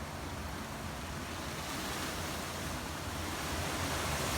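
Hurricane wind gusting, a steady rush with a low rumble of wind on the microphone, growing louder toward the end as a stronger gust builds.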